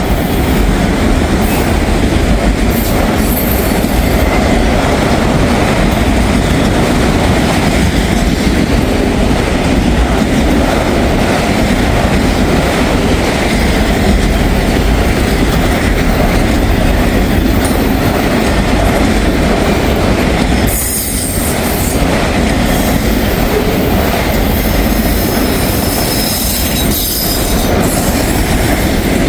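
Long freight train's cars rolling past close by: a steady rumble and clatter of steel wheels on the rails, with brief high wheel squeals now and then.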